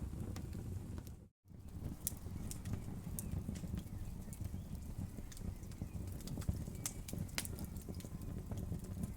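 Wood fire crackling, with sharp pops and snaps at uneven times over a steady low rumble of flames. The sound cuts out completely for an instant about a second and a half in.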